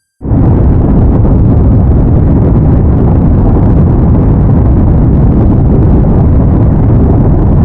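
Loud, steady low rumble that starts suddenly just after the beginning, like a rumbling sound effect.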